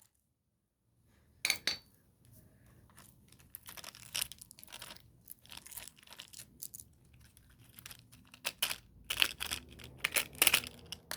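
Plastic of a toy car cracking, crunching and clicking as it is pried and broken apart, in short irregular snaps that come thicker near the end.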